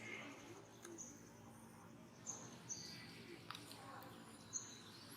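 Faint outdoor background with birds giving a handful of short, high chirps, and a couple of light clicks.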